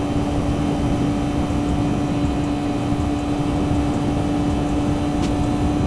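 2009 Yamaha YZF-R6's inline-four engine with an aftermarket exhaust, running at steady revs while the bike cruises, its even drone held at one pitch under a rumble of wind and road noise.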